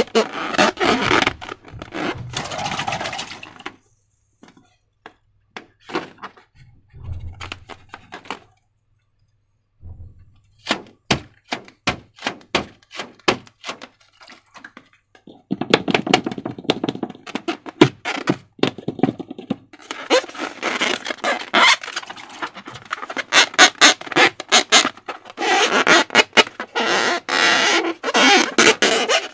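Slime being worked by hand: sticky clicks and squelches. There are sparse clicks in the first half, then long runs of dense crackling squishing from about halfway through.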